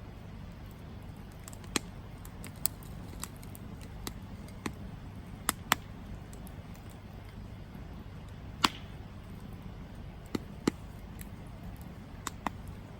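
Campfire burning: irregular sharp pops and crackles of burning wood, about a dozen in all, over a low steady rush. The loudest pop comes about two-thirds of the way through.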